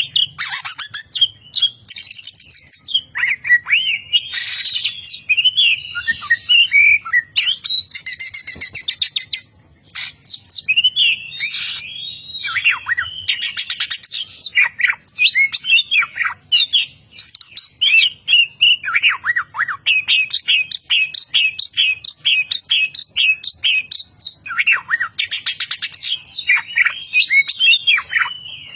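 Oriental magpie-robin (kacer) singing a long, varied song of whistles, sweeping notes, buzzy rattles and fast runs of repeated chirps, including mimicry of a lovebird's rapid trilling. The song breaks off briefly about nine seconds in.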